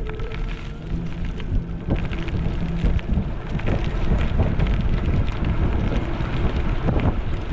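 Wind rumbling on the microphone of a camera riding on a moving electric scooter, mixed with road and ride noise and scattered knocks. A faint low steady hum stops about two seconds in.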